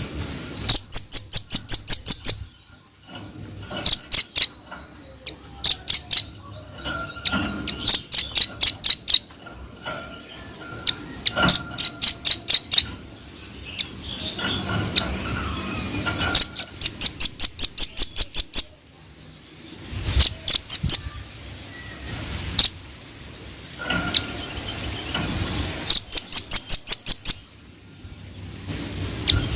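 Velvet-fronted nuthatch singing: rapid runs of sharp, high notes, about ten to a run, each run lasting a second or two and repeated every few seconds.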